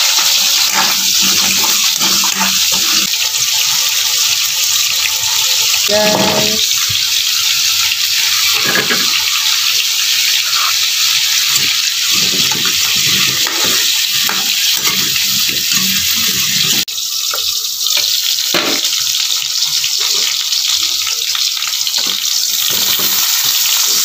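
Cubed potatoes and carrots frying in hot oil in a steel wok: a steady, loud sizzle with the scrape and clink of a metal spatula stirring them. The sizzle breaks off for a moment about 17 seconds in.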